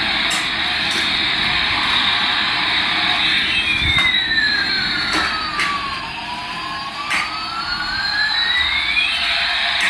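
Toy airplane's electronic jet-engine sound effect playing through its small speaker: a steady rushing hiss with a slow sweeping tone that dips and rises over several seconds, and a few light clicks.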